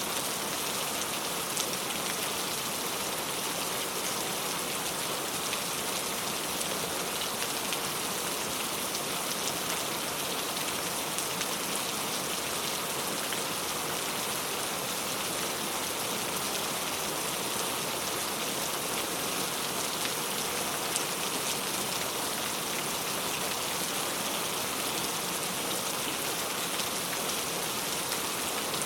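Steady heavy rain, hissing evenly, with the ticks of single drops striking nearby surfaces scattered through it.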